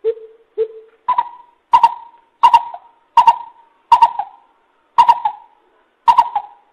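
Coucal calling a run of nine short hoots spaced well under a second apart. The first two are lower, and the rest jump up in pitch and hold there.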